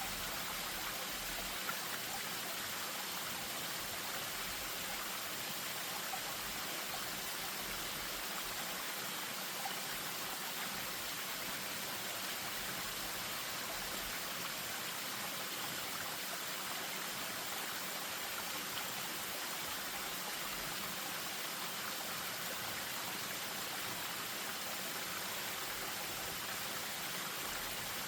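Spring-fed stream running over a small waterfall: a steady, even rush of moving water.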